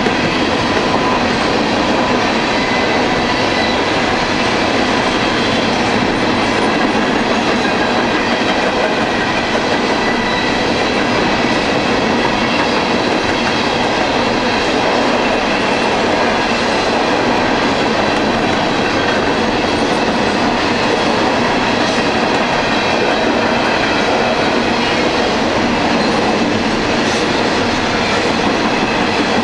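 Coal hopper cars of a long freight train rolling past: a steady, unbroken noise of steel wheels on rail, with faint high steady ringing tones over it.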